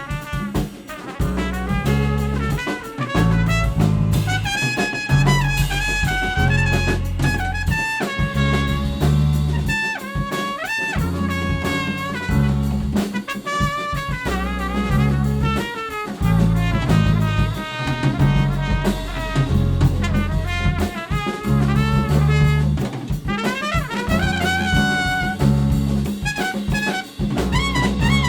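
Live jazz-flavoured band music: a trumpet plays a lead line over a walking bass and drum kit, with other instruments filling in.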